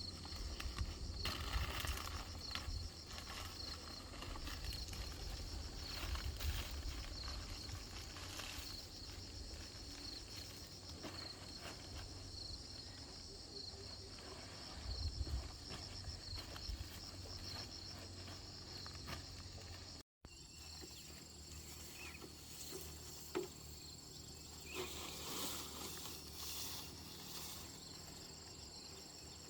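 Insects chirping in an even, repeating high pulse over a low rumble. After a cut about two-thirds of the way in, a steady high insect buzz takes over.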